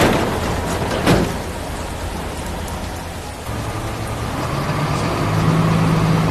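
Cartoon sound effects: a steady rushing hiss of water with a vehicle engine running underneath, the engine growing louder from about halfway through. A sharp knock about a second in.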